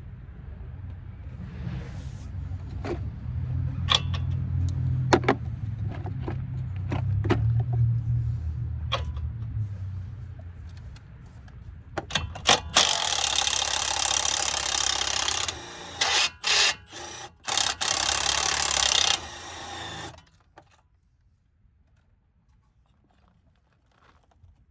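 Wrenches and sockets clinking against metal suspension parts over a low rumble. Partway through, a loud steady hiss starts and stops in a few short bursts, then cuts off.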